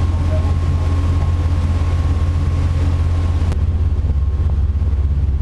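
Sightseeing boat's engine, a steady low drone heard on board. The hiss over it drops away suddenly about three and a half seconds in.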